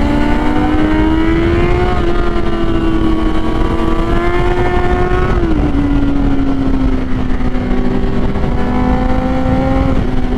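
Kawasaki Z800 inline-four motorcycle engine running hard under riding load, its pitch climbing for the first couple of seconds, dropping sharply about five seconds in, then settling lower with another short climb and drop near the end. Wind rushes over the microphone underneath.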